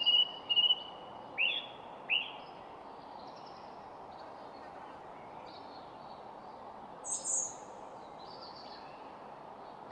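Wild birds singing and calling over a steady background hiss. Quick repeated notes come at the start, then two sharp falling calls around one and a half and two seconds in, softer chirps after that, and a loud high call about seven seconds in.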